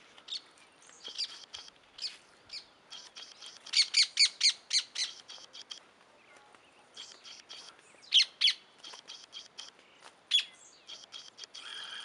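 Wild birds chirping and calling: many short high chirps throughout, a quick run of about six loud, sharp notes around four seconds in, then a loud pair and, a couple of seconds later, one more loud note.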